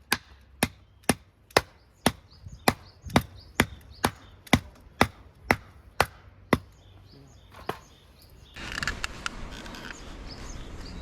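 Rhythmic chopping strikes on wood, about two a second, fourteen in all, stopping about six and a half seconds in; then steady outdoor ambience with faint clicks and chirps.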